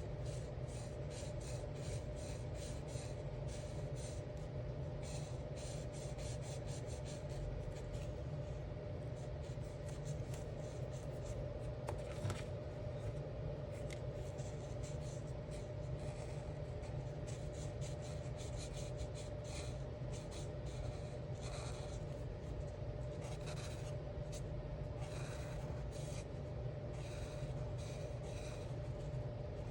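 Alcohol marker tips stroking across coloring-book paper in many short, quick back-and-forth strokes, over a steady background hum.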